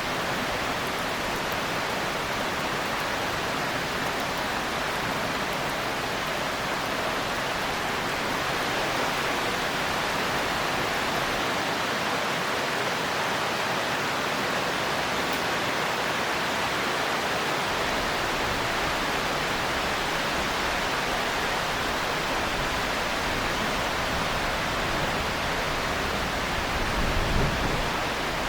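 Steady heavy rain falling as an even hiss, with a brief low swell near the end.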